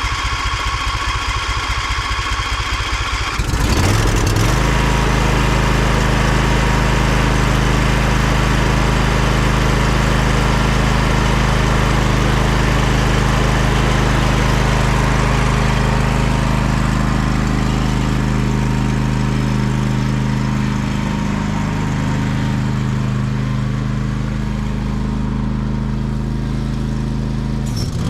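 A Briggs & Stratton lawn tractor engine being cranked by its electric starter for about three and a half seconds, then catching and running steadily. It is left running to warm up the old oil before an oil change.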